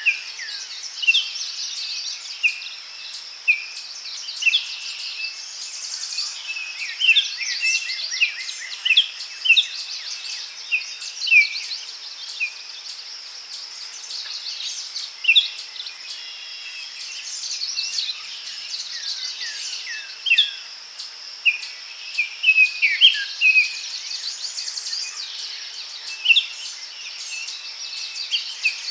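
Daytime forest bird chorus: many small birds chirping and calling in quick, overlapping phrases over a steady high-pitched hiss.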